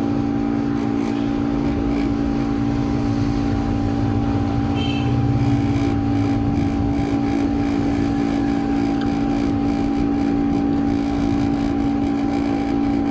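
A steady mechanical hum holding several constant pitches, loud and unchanging throughout.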